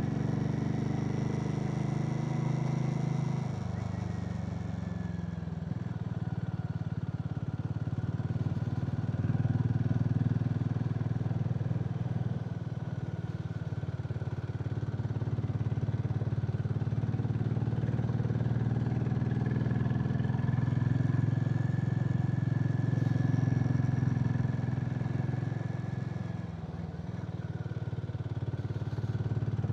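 Harley-Davidson X440's single-cylinder engine running as the motorcycle is ridden, with wind and road noise; the engine note shifts a few times and eases off briefly near the end before picking up again.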